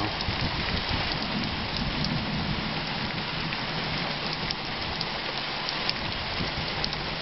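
Heavy rain pouring down steadily: a dense, even hiss of falling rain with many small drop ticks through it.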